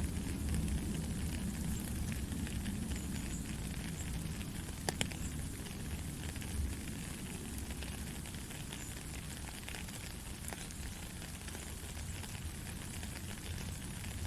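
Steady gentle rain: an even hiss with scattered drop ticks over a low rumble, and one sharper drip about five seconds in.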